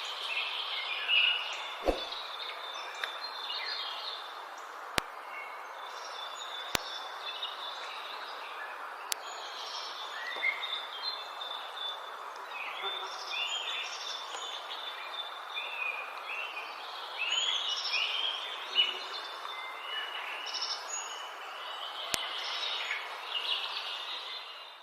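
Several birds chirping and calling in quick succession over a steady hiss of outdoor background noise, with a few faint clicks; the sound fades out near the end.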